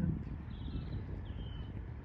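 Steady low outdoor rumble with two faint, short, high bird calls sliding in pitch, about half a second and a second and a half in.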